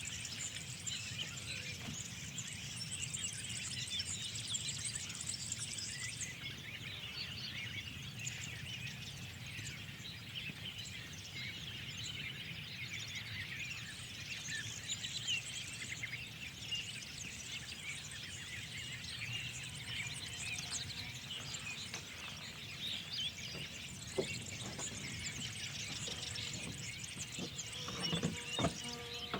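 Chorus of many small birds chirping and twittering together, over a steady low rumble. A few short knocks near the end.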